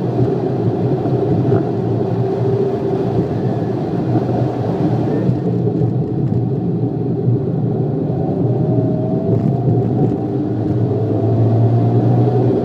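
Scion FR-S's 2.0-litre flat-four engine running hard at track pace. In the second half its note climbs twice as the car accelerates out of a corner onto the straight.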